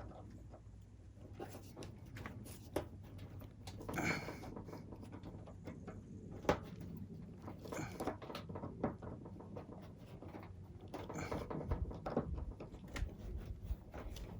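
A screwdriver tightening the screws of a plastic terminal block joining the cut extension cable: irregular small clicks, creaks and scrapes of the tool and wire being worked hard against a metal table.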